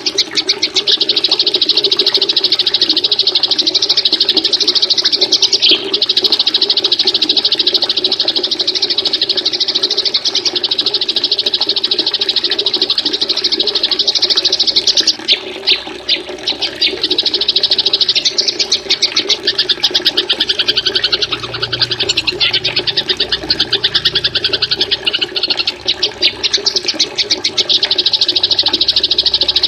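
Small songbirds' rapid, high-pitched trilling and chattering, almost unbroken, over a steady run of water.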